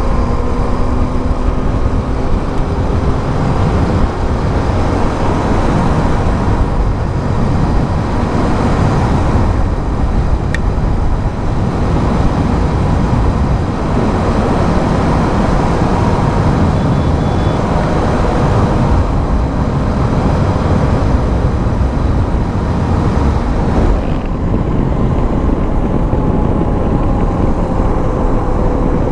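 Motorcycle riding at steady speed: a steady engine note under heavy wind noise that buffets the microphone.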